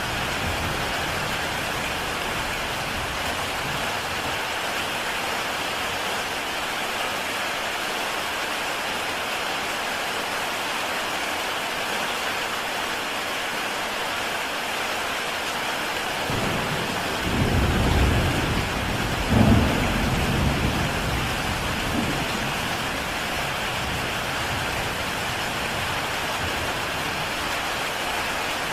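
Heavy rain falling steadily on a tile roof, an even hiss of drops. About 17 seconds in, a low rumble of thunder rises and rolls for a few seconds before fading back under the rain.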